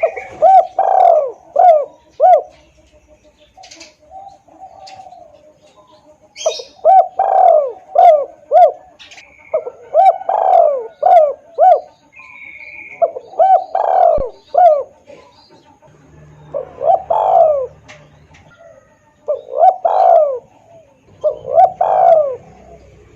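Spotted dove cooing in repeated phrases of three to five low coos, a new phrase every few seconds: a loud, clear tekukur lure call used to draw in doves. Faint chirps of small birds sound in between.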